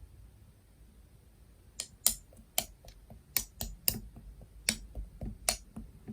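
Soda cream slime being pressed and worked by hand, giving a run of about ten sharp clicking pops from air pockets, starting nearly two seconds in and stopping just before the end.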